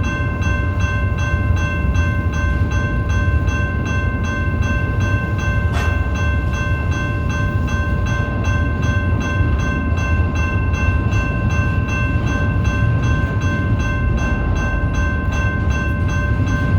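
BNSF freight train rolling past: a steady heavy rumble with a fast, even clicking from the cars, and steady high ringing tones throughout.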